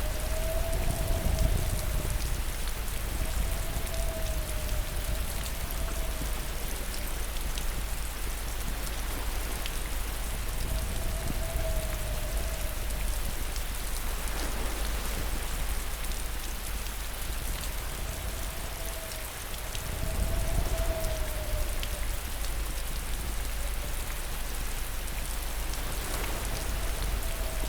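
Steady rain falling, an even hiss with a low rumble underneath. A faint wavering hum drifts in and out every several seconds.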